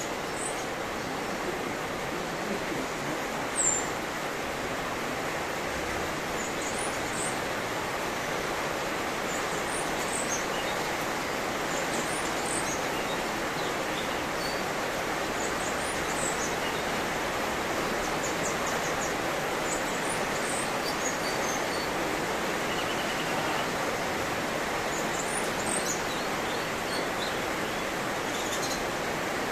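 Small birds giving short, high chirps, scattered and repeated, over a steady background hiss. One chirp, a little under four seconds in, is louder than the rest.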